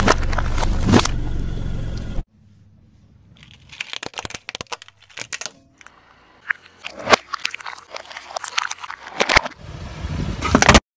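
A car running over brittle objects and crushing them under its tyre. About two seconds of steady car noise stop abruptly, followed by a run of crunches, cracks and crackles with several sharp louder snaps, thickening into a dense loud crunch near the end.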